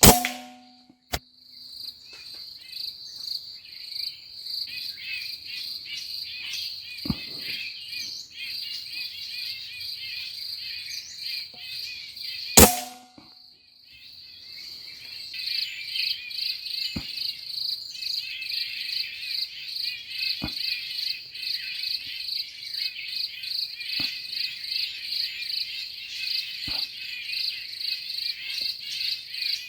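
Steady, pulsing chorus of insects, cut by two loud sharp air-rifle shots, one at the very start and one about twelve and a half seconds in, each with a short ring. The insects drop off for a moment after the second shot, then pick up again.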